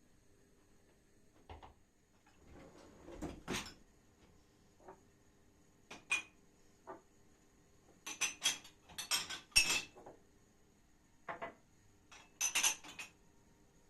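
Dishes and cutlery clinking and clattering as they are handled, in scattered sharp knocks that come thicker about two thirds of the way through.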